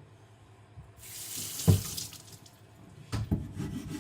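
Water splashing for about two seconds after a quiet first second, with one knock partway through. Two sharp clicks near the end.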